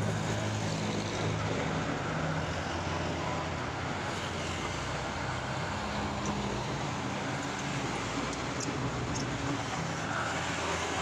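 A motor vehicle's engine running steadily with a low drone, over road and traffic noise.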